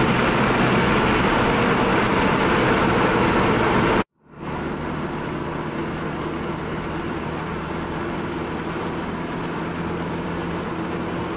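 Toyota MR2 AW11's 4A-GE twin-cam four-cylinder engine, fitted with a 3D-printed cold air intake, running loud under way, heard from inside the cabin with heavy wind and road noise. About four seconds in the sound cuts out abruptly and comes back quieter, the engine and road noise then steady.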